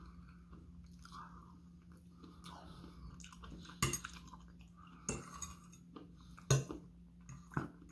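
Close-up chewing of a mouthful of food, with a metal fork clicking against a plate four sharp times as food is scooped up.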